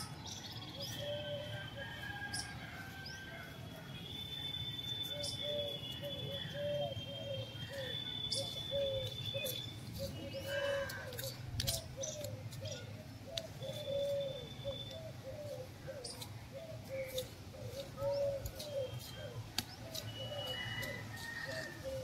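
Birds calling outdoors: a steady series of short, low repeated calls with higher whistled notes over them, and scattered light clicks.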